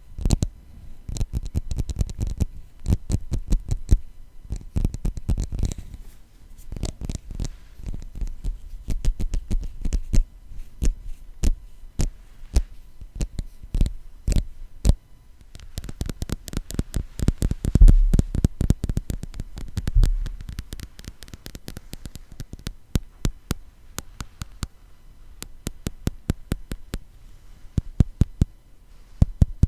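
Tapping on a glass container, in quick irregular runs of taps, each with a deep thump from the close microphone.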